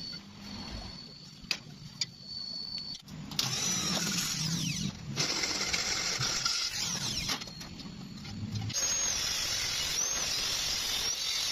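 Electric welding arc crackling and hissing in three spells, each starting and stopping abruptly as the arc is struck and broken, with a few sharp clicks before the first.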